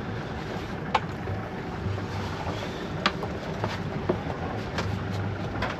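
Wind and water rushing past a sailboat under way, with a few sharp clicks.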